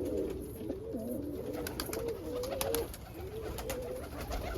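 Several Birmingham roller pigeons cooing, their low, rising-and-falling coos overlapping, with a few sharp clicks in the middle.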